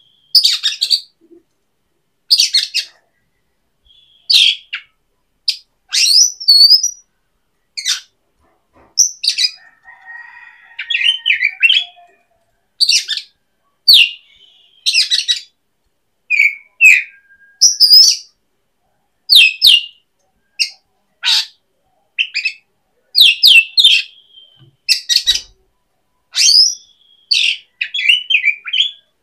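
A bird chirping: short, high-pitched chirps and brief trills, one or two a second, with short pauses between them.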